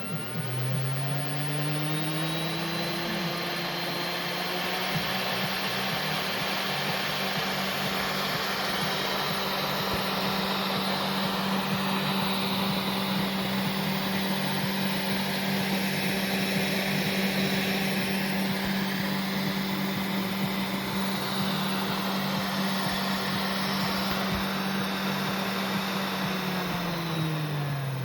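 MachiFit 500 W CNC spindle motor spinning up over about a second, running at a steady speed with a whine and hiss, then winding down near the end. It is running on the corrected supply of about 100 to 110 V DC from the power supply fed through an AC voltage regulator.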